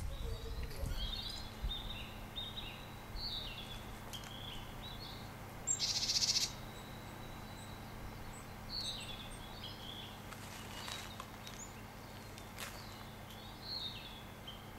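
Small tits giving short, high chirping calls scattered throughout, with one louder buzzy rasp lasting under a second about six seconds in. A faint steady low hum runs underneath.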